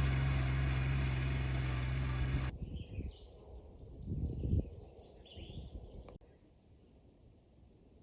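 A steady low hum lasts about two and a half seconds and stops suddenly. Birds chirp after it, with a short low rumble in the middle. From about six seconds in, a steady high-pitched insect buzz takes over, typical of crickets.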